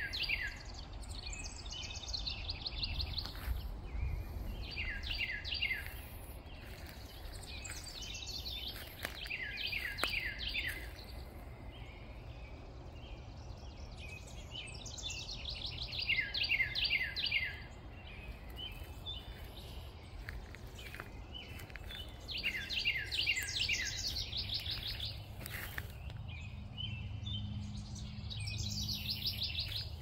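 A songbird singing: phrases of four to eight quick, steeply falling whistled notes, repeated every few seconds.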